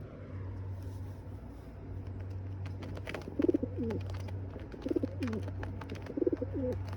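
A pigeon cooing: three short low coos, each dipping in pitch at the end, over a steady low hum.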